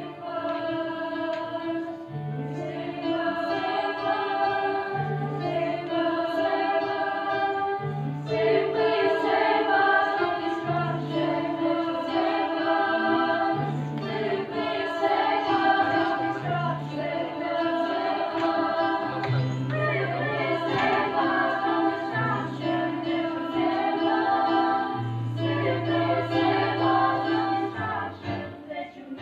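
A choir singing in several parts, holding sustained chords over a low bass line of repeated notes.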